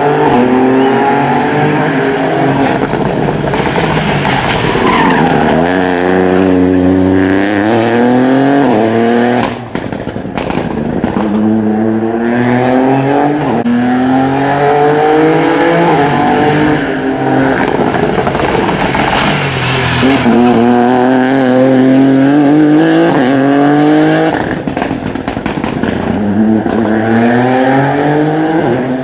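Rally cars at full throttle, engines climbing in pitch and shifting up through the gears, each quick drop in pitch followed by another climb, several times over.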